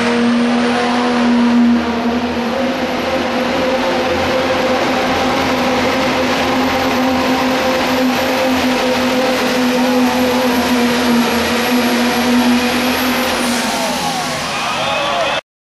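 Pro stock diesel pickup truck engine held at full throttle and high, steady revs under load while pulling the sled, with a thin high whistle over it. The revs fall away near the end, and the sound cuts off suddenly.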